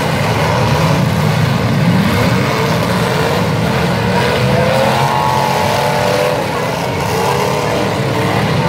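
Several V8 demolition derby cars running and revving at once, their engines overlapping, with pitch rising and falling as they accelerate and back off.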